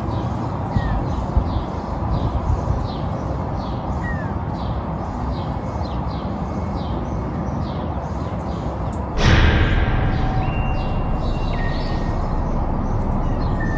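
A bird chirping over and over in short high notes above a steady low outdoor rumble. The rumble swells suddenly about nine seconds in and stays louder.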